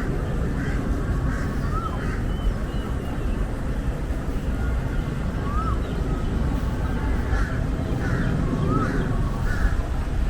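Birds calling repeatedly in short, hooked notes over a steady low rumble of city background noise.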